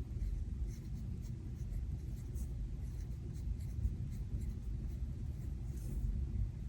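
Faint rustling and small ticks of paper stickers being peeled and pressed onto a planner page, over a steady low rumble of thunderstorm ambience.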